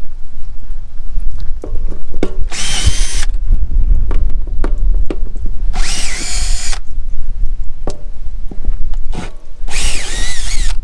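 Power drill fitted with a nut driver running in three short bursts, each under a second, spinning out the screws that hold an RV water heater in place. Clicks and knocks come between the bursts over a steady low rumble.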